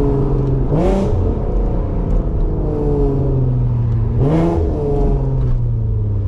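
Car engine heard while driving, its note sliding slowly down and then revving up sharply twice, about a second in and again past four seconds.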